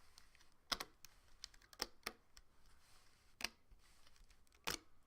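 Latex loom bands clicking and snapping off the plastic pins of a Rainbow Loom as the finished bracelet is lifted off by hand: about five sharp clicks at uneven intervals, with lighter ticks between.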